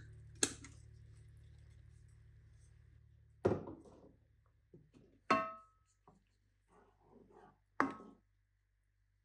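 Kitchen clatter of dishes or cookware being handled: several sharp knocks and clinks, some with a brief ring, and soft rattling in between. A low steady hum stops about three and a half seconds in.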